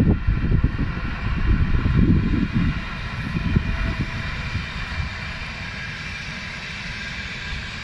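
Passenger train hauled by an electric locomotive running past: a low rolling rumble with a steady whine above it. The rumble eases off about three seconds in.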